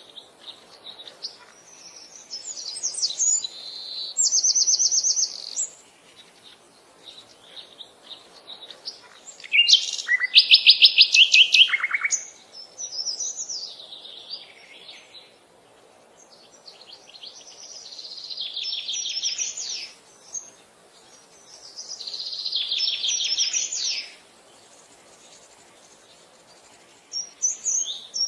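Wild birds singing: a series of separate high-pitched song phrases made of rapid trills and chirps, coming every few seconds, the loudest a fast trill about ten seconds in.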